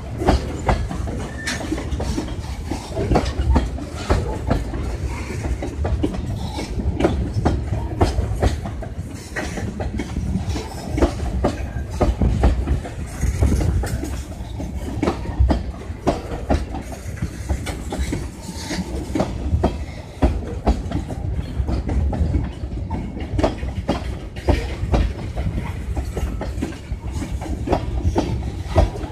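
Freight train tank cars rolling past, their steel wheels clacking over rail joints in a continual run of sharp knocks above a steady low rumble.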